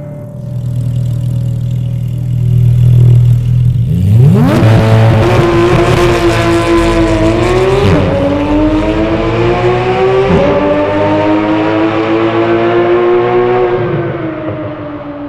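Porsche 911 GT3 (991) naturally aspirated flat-six through an Akrapovič titanium exhaust. It starts with a low, steady rumble, then at about four seconds revs sharply and pulls up through the gears, its pitch climbing and dropping back briefly at two upshifts. It eases off near the end.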